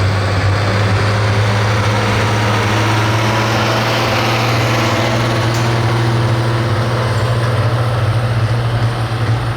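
Pro stock pulling tractor's big turbocharged diesel engine running steadily at a low, even idle.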